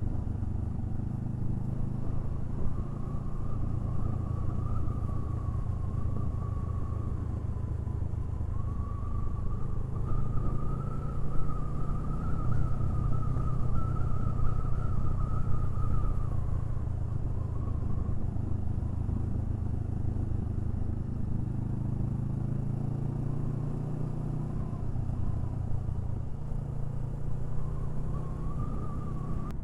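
Honda Rebel 500 motorcycle running steadily while being ridden on the road. It gets a little louder for several seconds about a third of the way in, then settles back.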